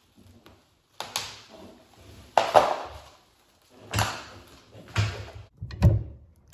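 Clunks and scrapes of metal parts and tools while the support foot is bolted onto a Champion portable generator's frame: five separate knocks, each trailing off briefly.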